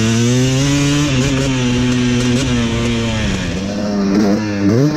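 Dirt bike engine running under throttle while riding a motocross track. Its pitch climbs at the start, holds steady, drops about three and a half seconds in and climbs sharply again near the end.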